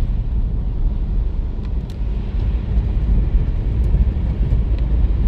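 Steady low rumble of outdoor noise in a snowstorm, with a few faint clicks.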